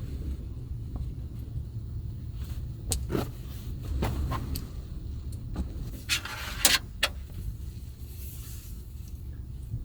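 Clicks, knocks and a short rustling clatter of things being handled inside a small van, over a steady low rumble. The loudest handling noise comes about six to seven seconds in.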